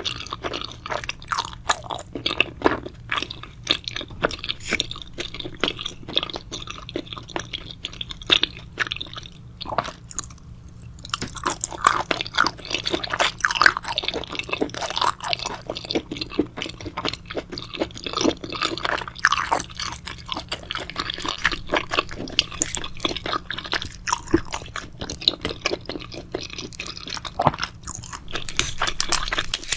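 Close-miked chewing and crunching of food in a person's mouth: a dense run of irregular crisp crunches and bites, with a brief pause about ten seconds in.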